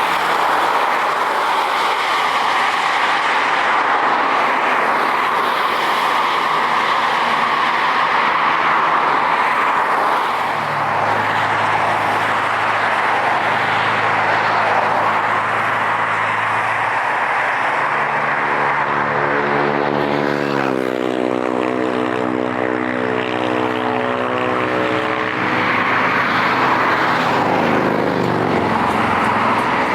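Jet airliner taking off, its engines making a loud, steady rush throughout. From about ten seconds in, a lower humming drone joins, and a stack of pitched tones slides in pitch around twenty seconds.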